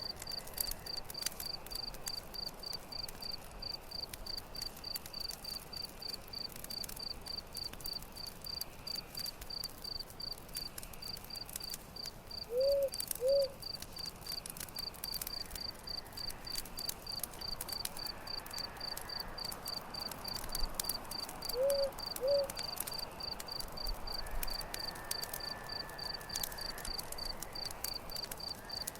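Campfire crackling with a cricket chirping steadily, about three chirps a second. Twice, a pair of short low call notes is the loudest sound.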